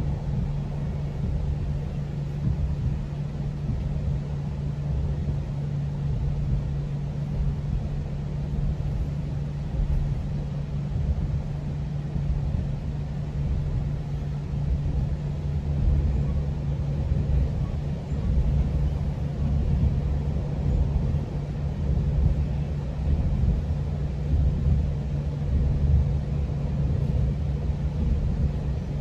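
GO Transit commuter train running between stations, heard from inside a coach: a steady low rumble with a constant low hum, a little louder in the second half.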